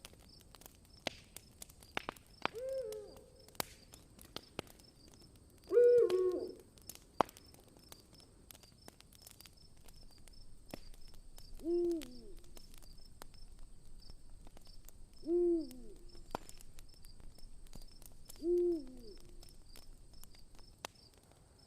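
An owl hooting five times, each hoot a short call that rises and then falls, the one about six seconds in the loudest, over the crackle of a campfire. A faint, evenly pulsing insect trill runs underneath.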